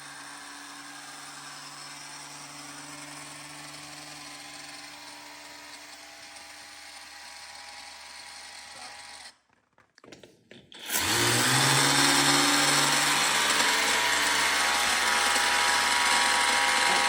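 Battery-powered pressure washer running: a steady motor-and-pump whir that drops out about nine seconds in. About a second later it starts up again much louder and runs steadily with a low hum. It is spraying recirculated, silty water that keeps clogging it.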